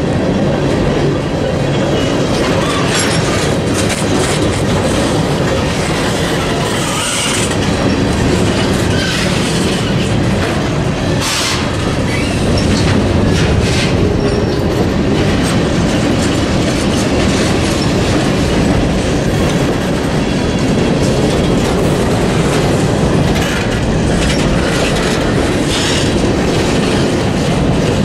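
Freight cars rolling past at close range: a steady rumble of steel wheels on rail with a rhythmic clickety-clack over the rail joints and a couple of brief, high wheel squeals.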